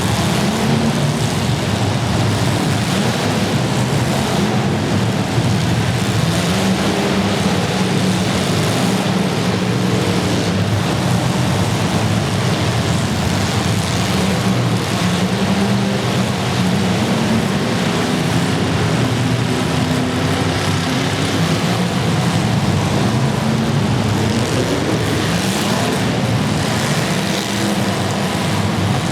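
Several demolition derby car engines running and revving together at loud, steady volume, their pitches wandering up and down as drivers rev.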